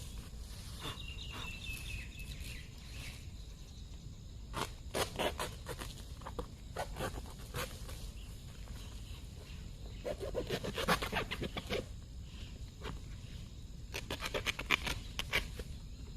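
Footsteps crunching and rustling through dry plant litter in several bouts, with a bird's short falling chirp about a second in.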